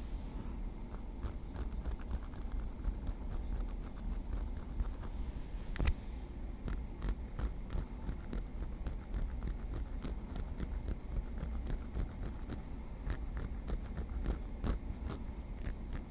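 Light, quick tapping and scraping with a small wooden stick, close to the microphone, in an irregular run of small clicks with one sharper tap about six seconds in.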